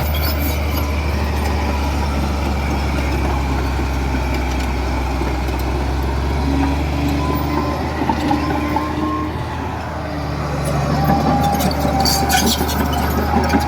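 Komatsu D31P bulldozer's diesel engine running with a steady low drone, with the steel tracks clanking and faint whining tones rising and fading in the middle.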